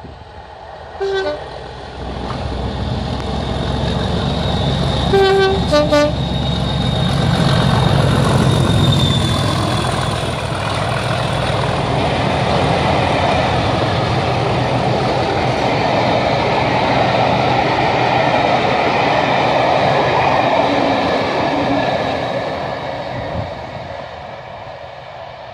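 Locomotive-hauled passenger train passing at speed: the locomotive's horn gives a short toot about a second in, then a two-note blast, high then low, about five seconds in. The engine and the coaches' wheels then rumble past loudly and fade as the train runs away.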